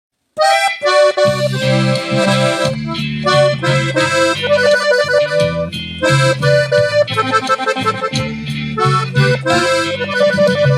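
Instrumental intro of a Tejano song: an accordion plays the melody, with a bass line entering about a second in.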